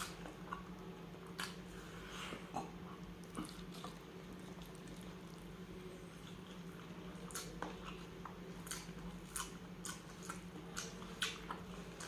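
Close-miked eating: wet chewing and lip smacks while someone eats spicy tuna sisig, with scattered short clicks that come more often in the second half, over a steady low hum.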